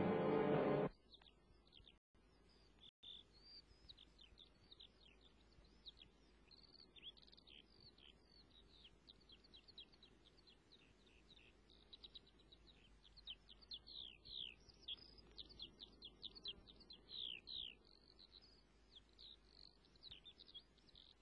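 Orchestral music cuts off about a second in. Faint birdsong follows: many quick, high chirps, most of them sliding downward, over a soft outdoor hiss.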